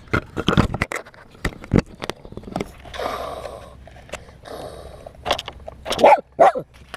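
Small dogs barking and yipping excitedly, with the loudest yelps near the end, among sharp clicks and knocks from handling the camera and truck.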